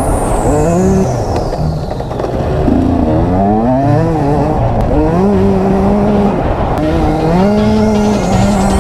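Dirt-bike engine revving hard, its pitch climbing and dropping again and again as the throttle opens and closes. A high thin tone sweeps downward over the first two seconds, and another begins sweeping upward near the end.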